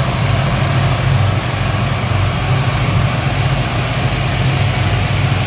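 Speedboat engine running steadily: a low, even hum under a constant rushing noise, with no change in speed.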